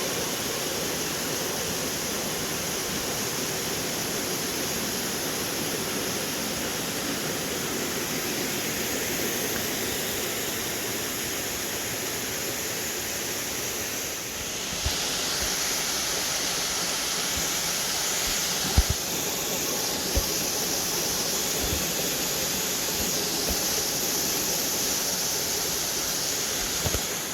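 Waterfall pouring into a pond: a steady rush of water that grows brighter and louder about halfway through. A few brief low bumps sound in the second half.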